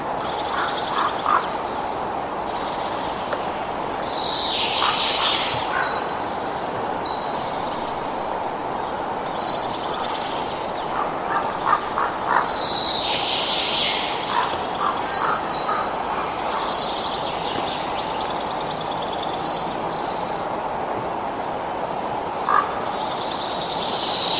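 Birds calling and singing, with repeated short high phrases and chirps, over a steady rushing background noise.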